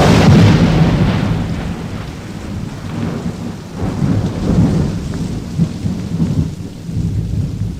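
Thunderstorm sound effect: a loud thunderclap at the very start that rolls away in a low rumble, with further rumbles of thunder over steady rain.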